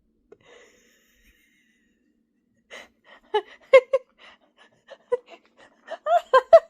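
Conure giving short chattering calls, one after another in quick bursts. They begin about three seconds in and come faster and louder toward the end, the parrot's agitated reaction to being told its owner is leaving.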